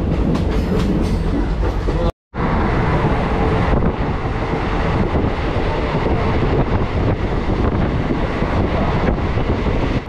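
Passenger train running along the track, heard from inside the coach: a steady rumble and rattle of the wheels on the rails with rapid clicking, the audio cutting out for a moment about two seconds in.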